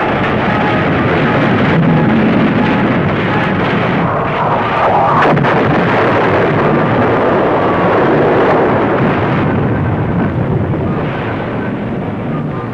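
Battle sound of a carrier under kamikaze attack: a continuous din of anti-aircraft gunfire and explosions, with a few sharper bangs standing out.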